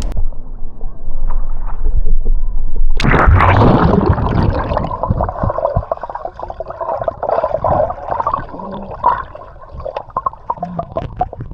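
Small motorboats' engines droning on a river, coming in loudly about three seconds in and then running on with an uneven drone, over low wind rumble on the microphone.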